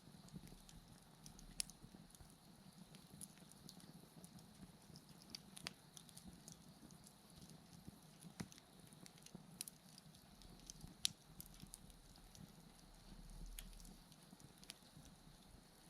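Wood bonfire crackling faintly: scattered sharp pops and snaps, the loudest about a second and a half in and again about eleven seconds in, over faint steady insect chirring.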